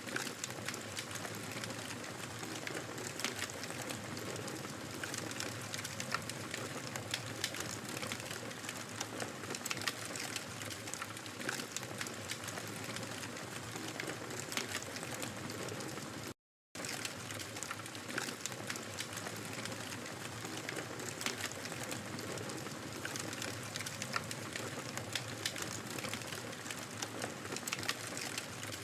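Wood fire crackling in a fireplace: a steady soft hiss full of irregular sharp pops and snaps. The sound cuts out completely for a fraction of a second a little past the middle.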